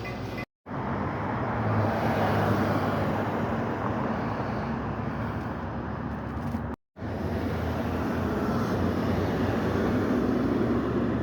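Car driving: steady road and engine noise, which cuts out briefly twice.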